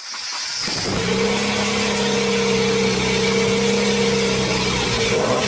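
Car engine running at a steady speed, fading up over the first second.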